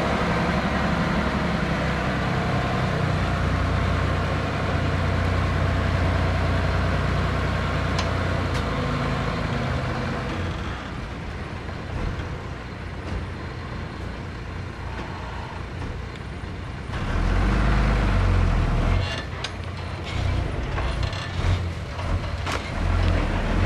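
Heavy diesel engine of earthmoving machinery running under load. It eases off about halfway through and picks up again with a deep surge a few seconds later. A few short clanks come near the end.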